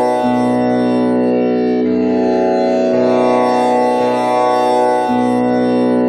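Tanpura drone tuned to B with komal Ni, its strings plucked in a slow, repeating cycle, each note overlapping the last to make a continuous buzzing drone.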